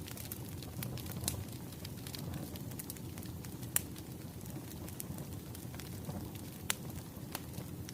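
Wood fire crackling: a steady low rumble of burning logs with sharp pops scattered through it, a few of them standing out clearly.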